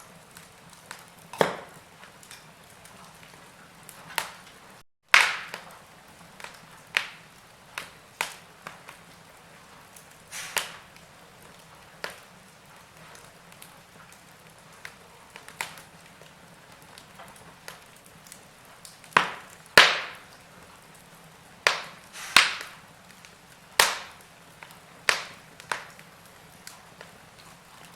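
Wood fire burning in a fireplace, crackling with irregular sharp pops and snaps over a faint steady hiss. The audio cuts out for a moment about five seconds in.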